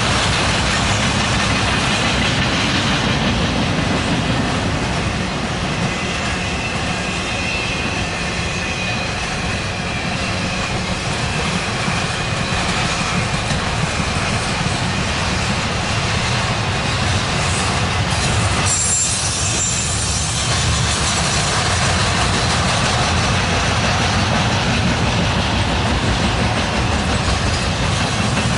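Norfolk Southern freight train's cars rolling past: a steady, loud rumble of steel wheels on rail, with a faint high wheel squeal for a few seconds about a quarter of the way in.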